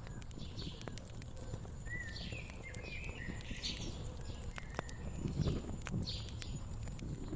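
Wood fire crackling, with frequent sharp pops and snaps over a low steady rumble. Small birds chirp in the background, short calls repeated every second or so, with a brief whistle or two.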